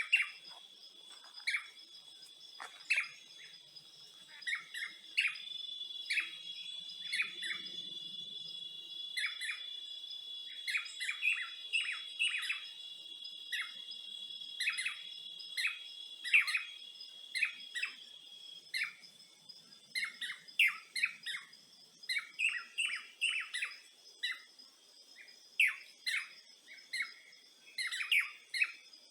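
Birds chirping with many short, quick calls, over a steady high-pitched trilling of insects. One insect trill grows louder from about five seconds in and fades out around eighteen seconds.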